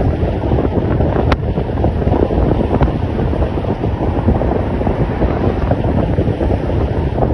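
Wind buffeting a microphone on a moving motorbike: a loud, steady rumble of rushing air, with one short click about a second in.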